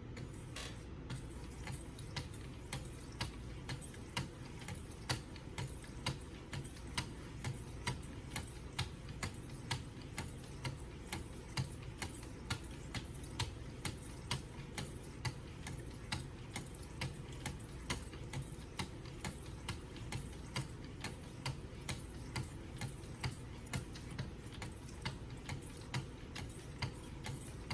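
Wicked Edge guided sharpener's 2,000-grit stones stroking a kitchen knife's edge: a light, regular tick about two to three times a second over a low steady hum.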